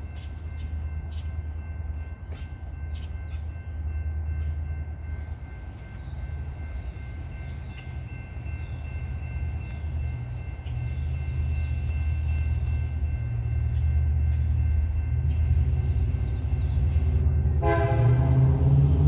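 Approaching freight train: a low rumble that grows steadily louder. Near the end the locomotive's horn starts to blow, a chord of several tones.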